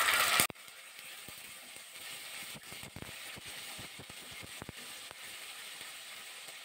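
Ginger paste sizzling loudly in hot mustard oil, cutting off abruptly about half a second in. Then a quieter steady sizzle with a spatula scraping and tapping the pan as the paste is stirred.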